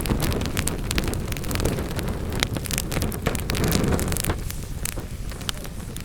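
Wood fire in a fireplace crackling, with frequent sharp pops over a low rush of burning. The low rush eases about four seconds in.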